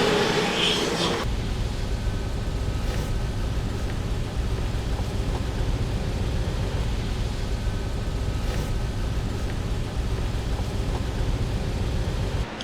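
A vehicle engine running steadily with a low rumble, after a louder rushing noise in about the first second.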